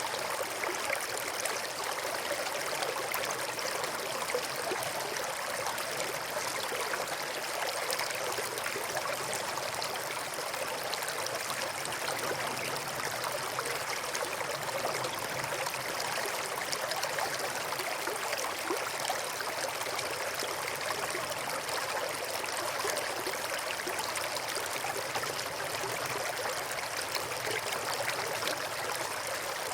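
River water flowing steadily over and between rocks: a continuous, even rushing and burbling with no change in strength.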